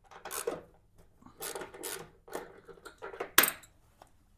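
A few short clatters and scrapes of hand tools and metal parts being handled at a motorcycle, with one sharper click about three and a half seconds in.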